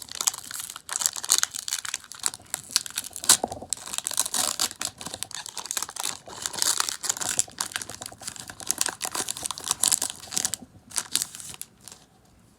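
Foil wrapper of a Pokémon Burning Shadows booster pack crinkling and tearing as it is opened by hand, a dense crackle that dies away near the end.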